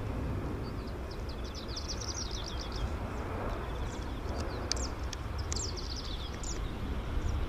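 Small birds chirping in quick runs of high notes, twice, over a steady low rumble.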